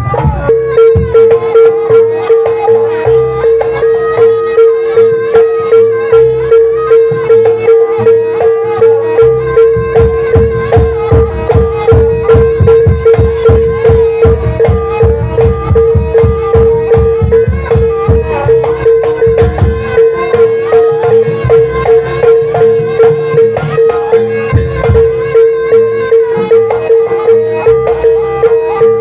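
Loud traditional music: a steady drum beat, a little under two strokes a second, under a single held tone that never stops.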